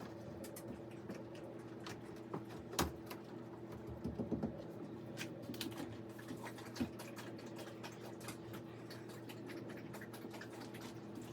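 Scattered light clicks and taps over a steady low hum, with a few louder knocks about 3 seconds in, a quick cluster around 4 seconds, and one near 7 seconds.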